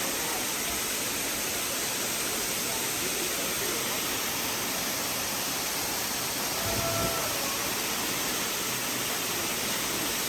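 Steady rushing of a waterfall, an even hiss of falling water, with a brief low bump about seven seconds in.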